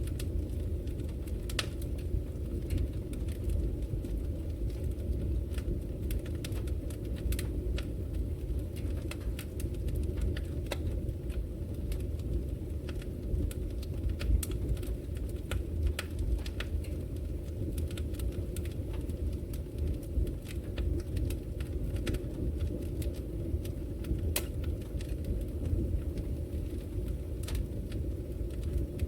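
Wood fire burning in a fireplace: a steady low rumble with sharp crackles and pops scattered irregularly, several in quick succession at times.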